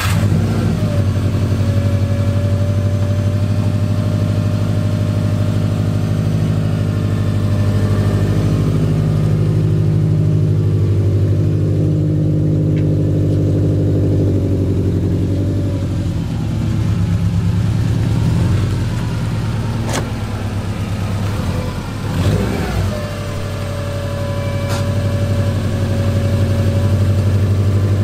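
Subaru WRX's turbocharged flat-four engine running at idle and low speed as the car is moved a few metres, its pitch mostly steady with small changes. A single sharp click comes about twenty seconds in.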